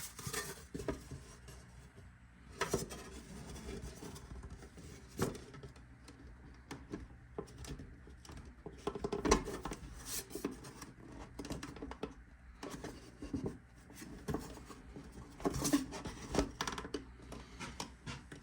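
Thin metal license plate being bent and handled: irregular metallic clinks, rubs and knocks, the loudest a little past halfway.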